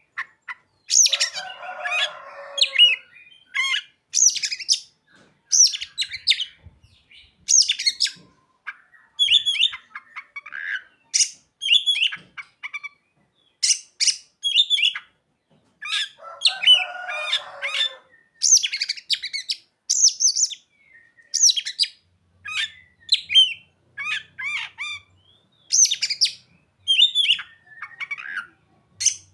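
Oriental magpie-robin (kacer) singing a long, varied song of sharp, high whistled and chirped notes in quick succession. Twice a harsher, buzzy chatter breaks in: once about a second in and again about sixteen seconds in. The song is filled in with imitated calls of other birds such as the bar-winged prinia (ciblek).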